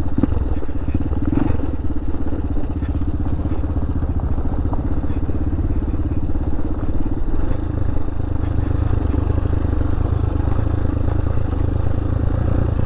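Hawk 250 dual-sport motorcycle's single-cylinder engine running steadily while it rides over a rocky trail, with clattering knocks in the first second or two.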